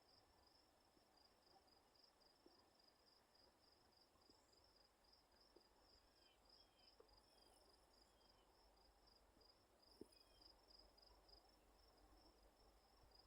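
Near silence outdoors: a faint, steady, high pulsing trill throughout, with a few faint chirps from about six to eight seconds in and a soft tick about ten seconds in.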